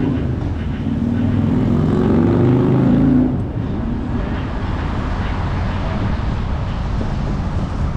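A motor vehicle running close by with a low engine hum that fades about three seconds in, over steady rumble of wind and road noise on an action camera's microphone.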